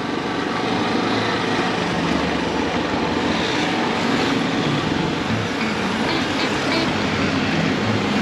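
Motorcycle on the move: a steady rush of wind and road noise over the microphone, with the engine running underneath.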